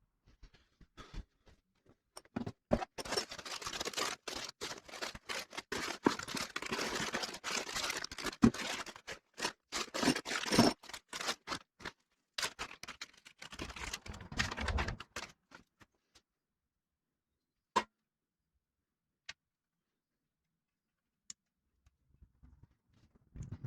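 Close-up handling noise: a dense run of rustling and small sharp clicks for about twelve seconds, a shorter burst after a brief pause, then a few single clicks.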